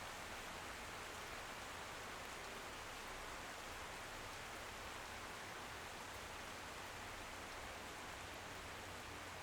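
Steady rain falling on a window: an even, unchanging hiss of many small drops.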